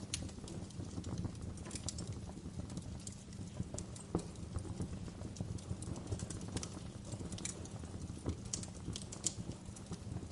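Wood fire crackling in a fireplace: irregular snaps and pops over a steady low rumble of the flames, with a few louder pops about four seconds in and again near the end.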